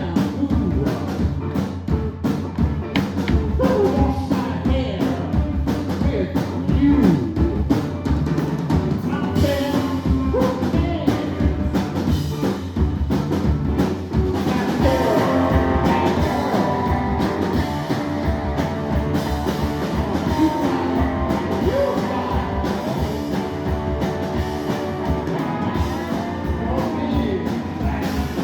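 Live rock band playing: a drum kit keeps a steady beat under electric guitar, with singing. About halfway through, held sustained notes thicken the sound.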